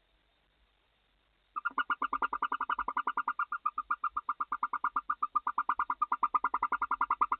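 Barn owl twittering in the nest box: a fast, even chatter of short notes at one pitch, about ten a second, that starts about a second and a half in.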